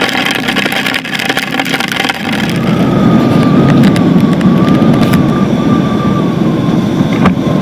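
Motorcycle riding on the road: engine and wind noise, rising to a louder, denser rumble about two seconds in, with a faint steady whine above it.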